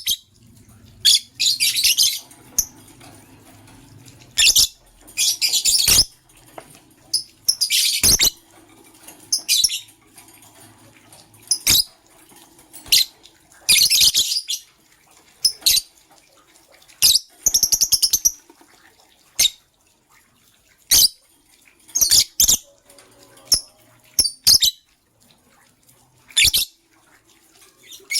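Lovebirds chirping in short, shrill bursts of rapid chirps every second or two, with sharp clicks and taps between them.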